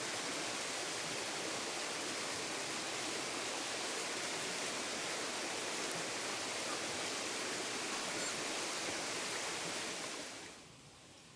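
Steady, even rush of water that cuts off about ten and a half seconds in.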